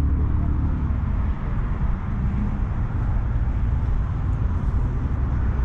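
Steady low rumble of a car engine running at idle, with general outdoor vehicle noise; the deepest part of the rumble eases off about a second in.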